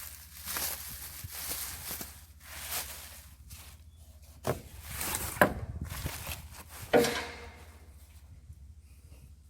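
Packaging being ripped and pulled off a heavy anvil, a run of quick scraping, tearing strokes. Then come three sharp knocks, the loudest about seven seconds in with a brief ring.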